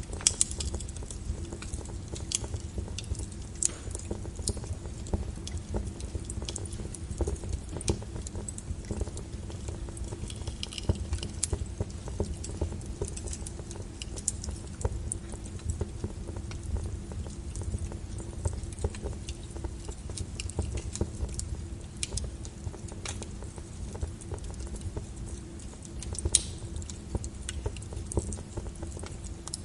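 Wood logs burning in a fireplace: a steady low rumble of the flames with frequent irregular crackles and pops, a few sharper pops standing out near the start and about two thirds of the way in.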